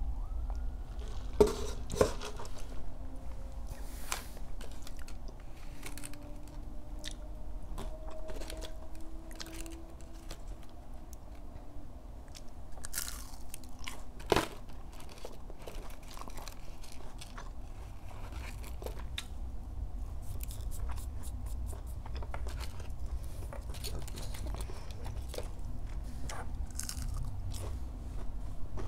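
Close-miked chewing and biting of McDonald's chicken nuggets, a steady run of crunchy bites and wet mouth sounds. A few sharp knocks stand out, two about a second and a half and two seconds in and another about fourteen seconds in.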